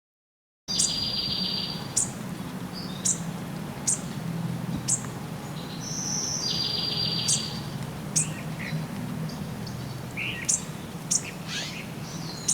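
Birds chirping: sharp high chirps about once a second and a rapid buzzy trill twice, over a low steady hum. The sound starts suddenly out of silence under a second in.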